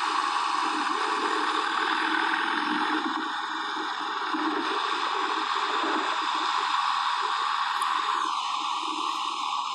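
Steady rushing wind and road noise on the camera microphone of a moving motorcycle, with a faint falling whistle near the end.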